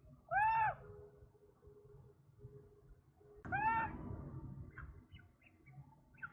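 Bird calls: two loud, short calls about three seconds apart, each rising and then falling in pitch with overtones, followed near the end by a few faint, short chirps.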